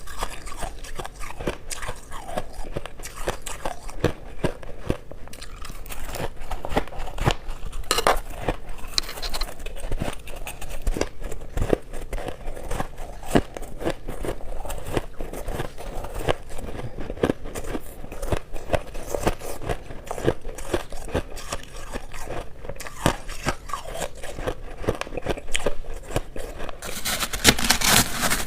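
Shaved ice crunched and chewed close to the microphone: a dense, continuous run of small crisp crunches and crackles, growing louder and brighter near the end.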